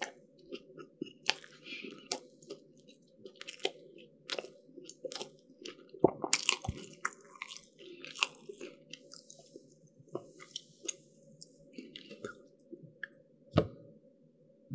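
Close-miked chewing of baked pastry: a steady run of crisp crackles and crunches over continuous mouth noise, with a sharp, louder crunch near the end.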